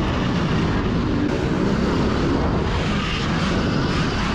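Riding noise of a Sur-ron Ultra Bee electric dirt bike at speed: a steady rush of wind and running noise from the bike.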